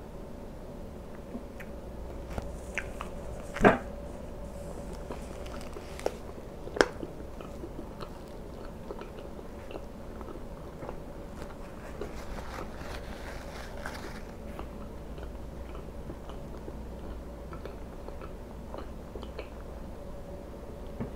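Close-miked chewing and biting of syrup-soaked pancake, with wet mouth sounds and scattered small clicks. Two sharp, louder clicks come about three and a half and seven seconds in, over a faint steady hum.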